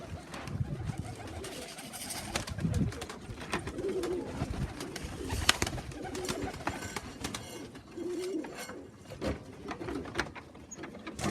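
Pigeons cooing in a loft, with repeated wavering low coos and scattered sharp clicks and taps.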